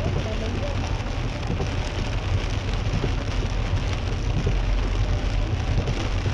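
Heavy rain falling steadily on a moving car's windscreen and body, heard from inside the car, over a constant low road and engine rumble.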